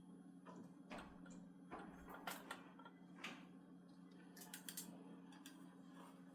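Faint scattered clicks and light taps of things being handled, over a steady low hum.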